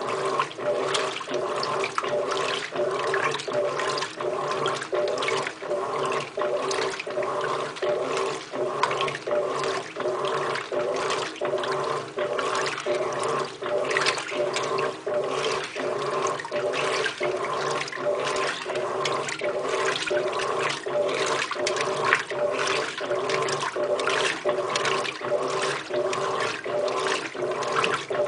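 Electrolux LTR15 washing machine agitating a load in water on its heavy-duty wash cycle: the motor hums steadily under rhythmic swishes of sloshing water, a couple each second.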